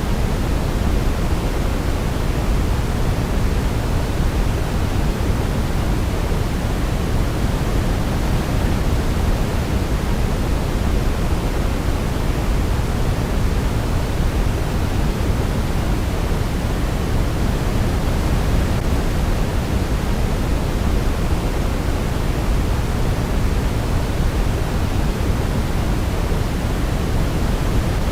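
Steady, unchanging sleep noise: a white-noise-style hiss, heavier in the bass than in the treble, with no melody heard.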